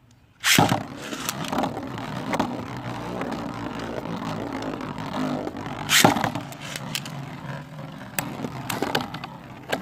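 Two Beyblades are launched with a sharp rip about half a second in, then spin and scrape around a plastic stadium. There is a loud clash about six seconds in and several lighter hits. The tops are a 3D-printed plastic-generation Beyblade and Drain Fafnir.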